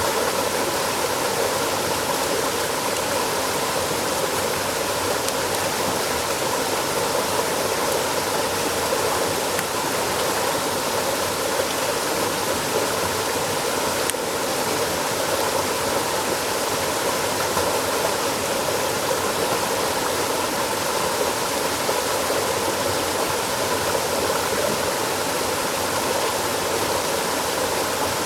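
Steady rushing of running water, an even noise that does not change.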